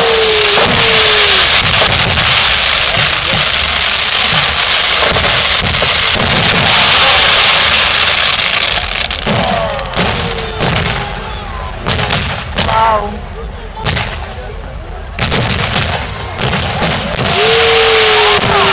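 Fireworks display going off: a dense crackling barrage of many shells, then separate sharp bangs through the middle, then a dense barrage again near the end. Crowd voices call out among the bangs.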